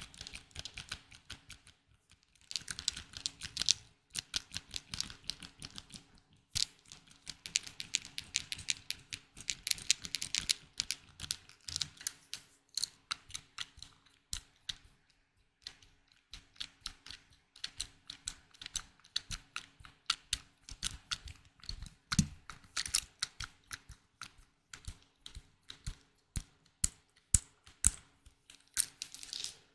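Close-miked ASMR tapping: rapid, irregular clicks and taps on hard objects, with a couple of brief pauses, over a faint steady hum.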